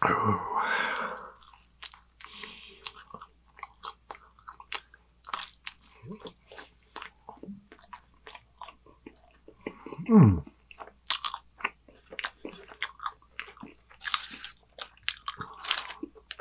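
Close-miked eating: a man biting and chewing pepperoni pizza, with many small crunches and wet mouth clicks. A short vocal sound falling in pitch comes right at the start, and a louder one about ten seconds in.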